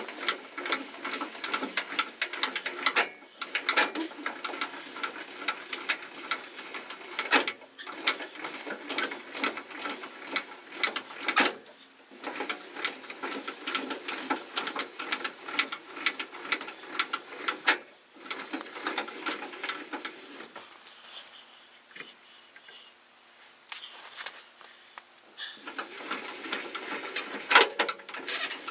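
Spare tire cable hoist under a pickup being cranked up, a fast irregular run of mechanical clicks with a few louder metal knocks.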